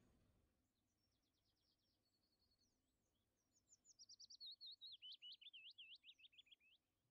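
A songbird singing faintly: a few short high chirps, then from about three and a half seconds in a quick run of repeated notes sweeping down and up, which stops just before the end.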